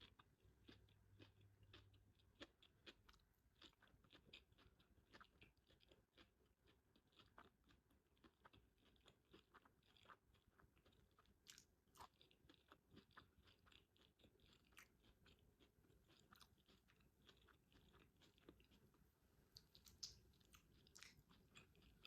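Faint, close chewing of a vegetable sushi roll with cucumber, carrot, avocado and seaweed: soft crunching and irregular little mouth clicks throughout.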